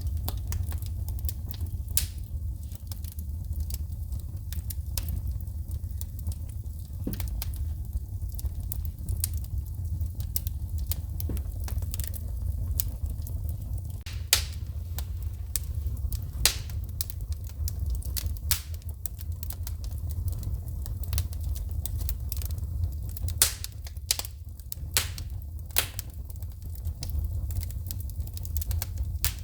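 Wood fire burning in a fireplace, crackling with frequent irregular pops and snaps of shooting sparks, a few of them louder, over a steady low rumble.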